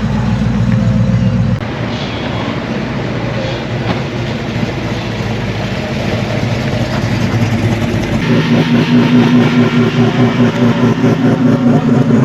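Car engines running at low revs, with a steady low engine note that changes suddenly about a second and a half in and again about eight seconds in, the last one pulsing unevenly.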